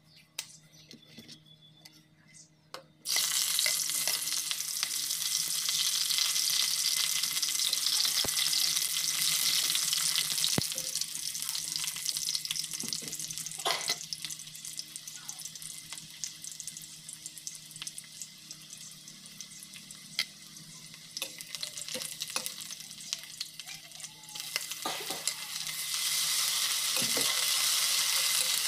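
Sliced onions frying in hot oil in an aluminium wok, a sizzle that starts suddenly about three seconds in. The sizzle eases in the middle and grows louder again near the end, as a metal ladle stirs and clinks against the pan.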